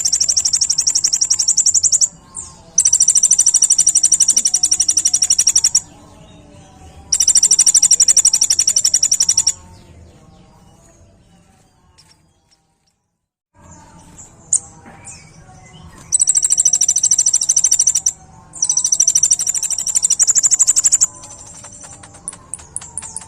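Kolibri ninja sunbird singing its high, very rapid trills, called 'tembakan' by bird keepers. There are five bursts of about two to three seconds each with short pauses between them, softer quick ticking notes near the end, and a brief dead silence about halfway through.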